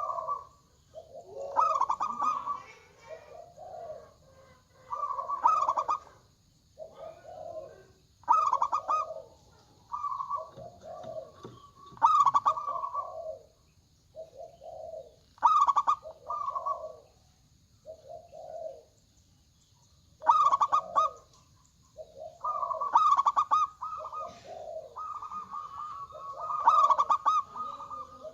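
Zebra doves (perkutut) cooing, with repeated rolling phrases of one to two seconds every couple of seconds and some phrases overlapping, as birds answer one another.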